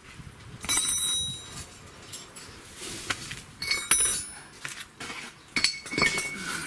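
Steel spanners clinking and knocking as they are handled and fitted onto a control-arm bolt and nut. One clink about a second in rings on briefly, followed by several sharper clinks and knocks later on.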